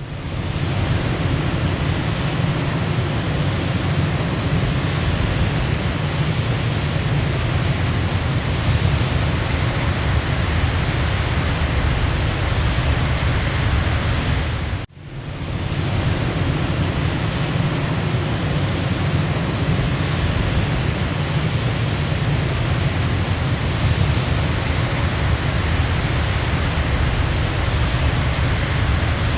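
Waterfall rushing in a steady, loud roar of falling water with a deep low end. About halfway through it drops out for a split second and fades back in, as at the seam of a looped recording.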